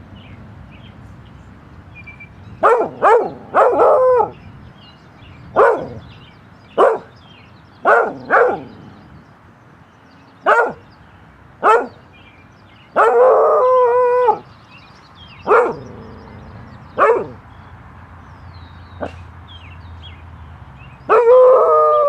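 A dog barking in short single and double barks about a second apart, with two longer, drawn-out howling barks, one about thirteen seconds in and one at the end.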